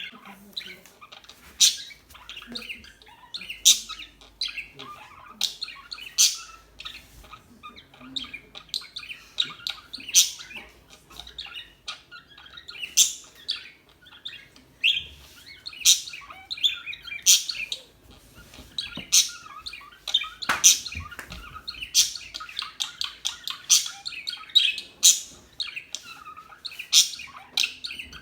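A group of pet budgerigars chirping and twittering together, with sharp, high chirps standing out about once a second over continuous chatter.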